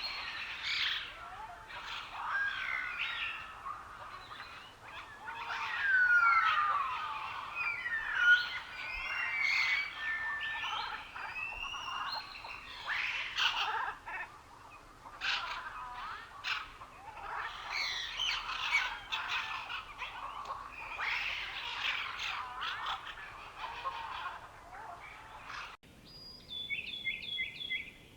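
Many songbirds singing at once in a dense, overlapping chorus of chirps, trills and warbles. About 26 seconds in it cuts abruptly to a sparser stretch where one bird gives a quick run of repeated short notes.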